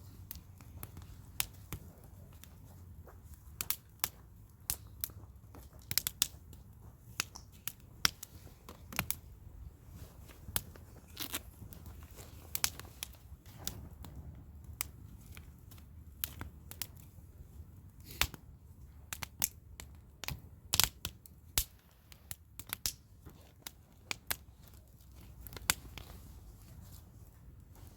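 Wood campfire crackling, with irregular sharp pops and snaps from the burning logs over a steady low background.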